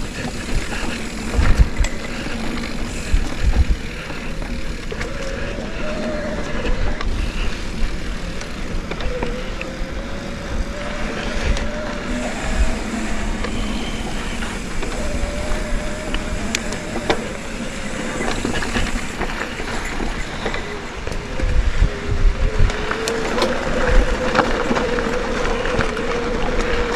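Mountain bike ride noise: wind on the microphone and the bike rattling over trail bumps, with repeated low thumps and a wavering hum that rises and falls.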